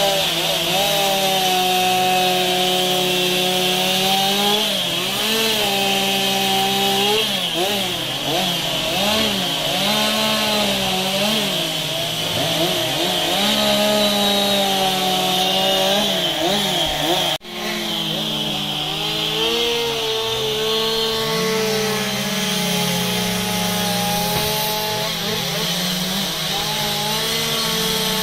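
Two-stroke chainsaw running at high revs while carving wood. Its pitch dips and rises again and again as the chain bites into the wood and frees. The sound breaks off for an instant about two-thirds of the way through.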